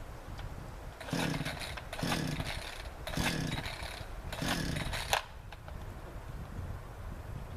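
Chainsaw's pull-start cord yanked four times, about a second apart, each pull a short whir as the two-stroke engine turns over without catching. The saw has just been refuelled after running out of gas and will not start.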